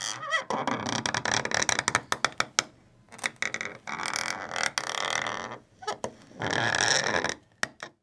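Foley creaking: a wooden stick twisted and rubbed in a hole in a wooden block, making dense stick-slip creaks in three long strokes. This is how a wooden armrest creaking under pressure is imitated.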